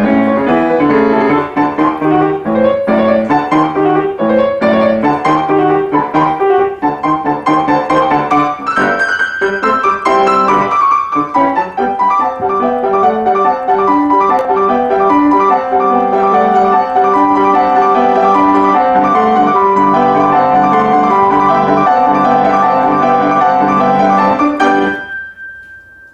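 Piano music, many notes played in quick succession, which stops abruptly about a second before the end.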